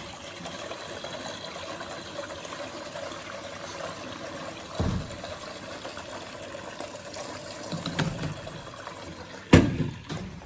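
Miele WS 5508 washing machine in its wool programme, water sloshing in the drum as it turns with two blankets inside. A few dull thumps break through, the loudest shortly before the end.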